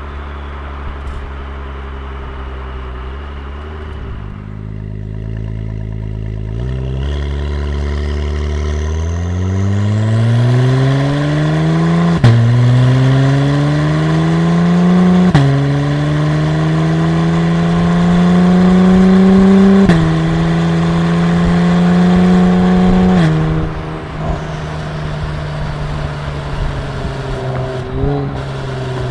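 Honda NSX V6 exhaust through a 3-inch all-titanium system, the car accelerating hard through the gears. The engine note climbs and drops sharply at each of three upshifts, holds, then falls to a lower steady note as the throttle eases off near the end.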